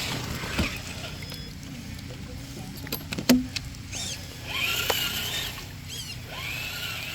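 Traxxas TRX-4 RC crawler's electric motor whining in two short runs in the second half, with one sharp knock a little after three seconds in.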